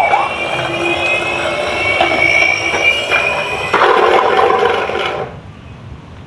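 Toy police car making a steady mechanical whir with a thin high whine over it, louder for a moment about four seconds in and cutting off about five seconds in.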